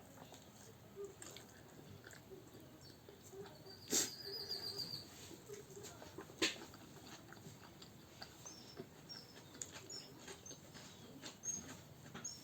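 Quiet eating sounds: a few sharp clicks and knocks, as of dishes or cutlery, with short high bird chirps in the background, most of them in the second half.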